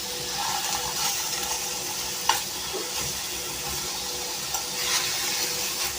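Chicken seekh kebabs sizzling steadily in a little oil in a pan on low flame, with a few short clicks.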